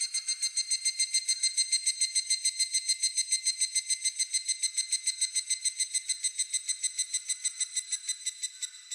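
Higurashi (evening cicada) singing its 'kana-kana' call: a fast, even run of high pulses, about eight a second. The call is loudest in the first few seconds and slowly fades toward the end.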